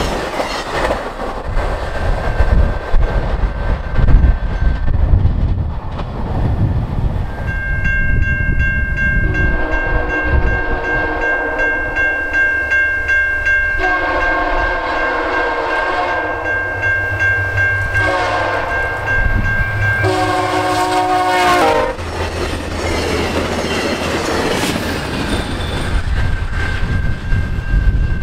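A VIA Rail passenger train's coaches rolling past with a rumble and clatter of wheels on rail, fading as it goes. Then a distant diesel locomotive's multi-chime air horn sounds two long blasts followed by two shorter ones, the warning of an approaching train.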